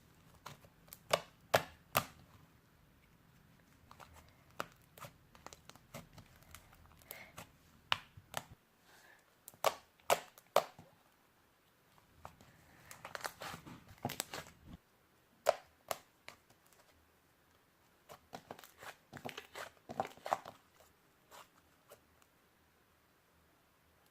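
Slime being kneaded and stretched by hand, with irregular sticky pops and clicks that come in quick clusters.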